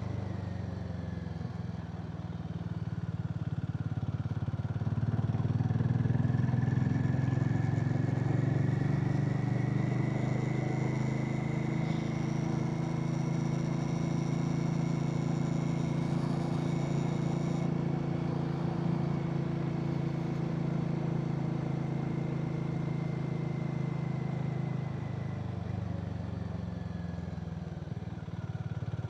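Harley-Davidson X440's single-cylinder engine running under way. It climbs in pitch over the first few seconds, holds steady while cruising, then eases off near the end.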